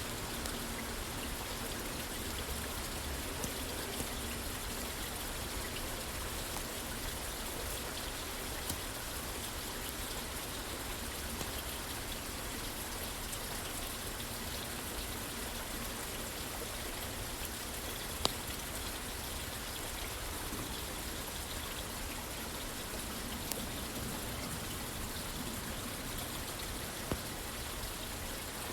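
Steady rain falling on a roof, an even patter with a few scattered sharp clicks, the loudest about eighteen seconds in.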